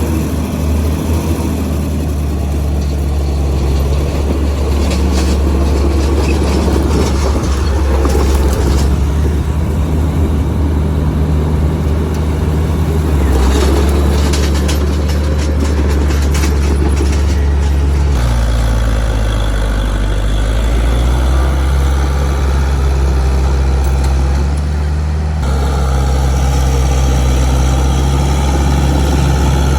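Heavy diesel earthmoving machinery running steadily and loudly, with bursts of rattling between about five and seventeen seconds. The engine note changes abruptly about eighteen seconds in and again about twenty-five seconds in.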